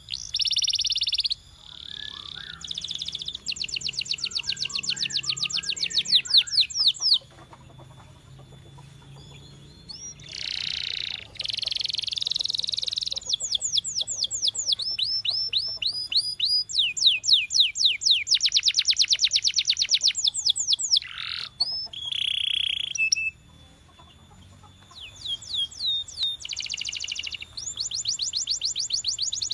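Canary singing: long rolls of rapidly repeated high notes and trills, changing from one phrase to the next, with two short pauses about a quarter of the way in and about three-quarters through.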